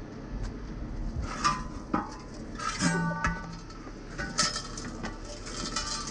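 Metal towing gear being handled and set under a truck's wheels: irregular metal clanks and clinks. Several sharp knocks, about one and a half, two, three and four and a half seconds in, some ringing briefly.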